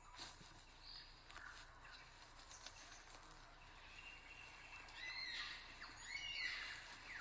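Birds calling in a forest over a faint steady hiss: short chirps and whistled, gliding calls that grow denser and louder from about five seconds in.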